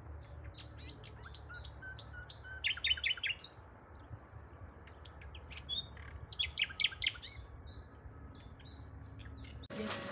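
Several small songbirds singing in short chirps and quick trills, with the busiest runs about three and seven seconds in, over a steady low rumble. Near the end it cuts abruptly to the clatter of a busy shop.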